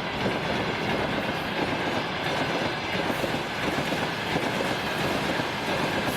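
Freight train wagons rolling past at steady speed, their wheels clattering over the rail joints.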